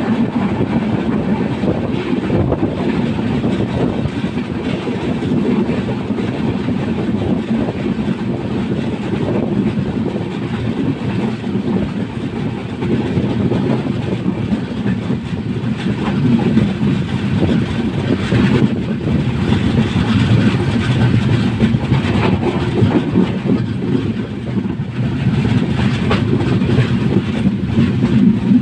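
Train running on the rails, a steady rumble with the clickety-clack of wheels passing over rail joints.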